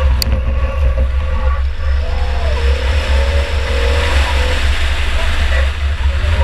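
A 2004 Chevy Impala enduro car driving hard, heard from an onboard camera: the engine running under a heavy, steady low rumble. The engine note rises and falls about two seconds in, and there is a sharp click just after the start.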